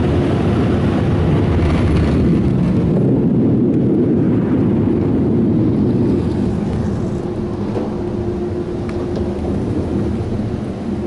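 Car wash air dryer blowers giving a loud, steady rush of air with a fan hum, heard from inside the car as it drives slowly through the drying stage; the noise eases off a little after about six seconds.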